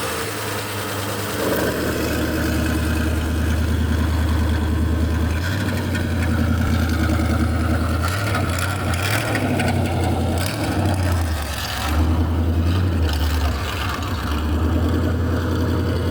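Car engine running with a steady low hum, its level shifting a few times.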